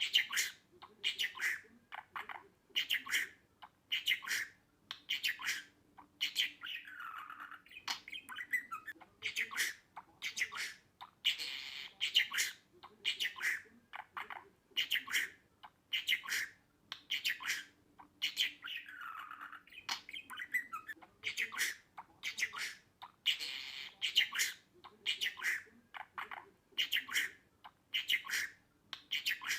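Budgerigar chattering and squawking: a continuous run of short, sharp chirps and squawks, several a second, some sliding down in pitch.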